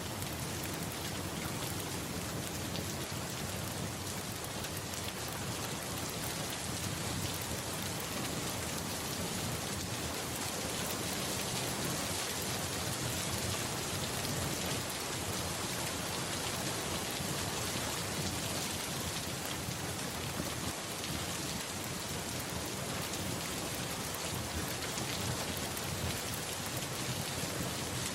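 Steady rain falling, an even unbroken hiss of drops on a surface.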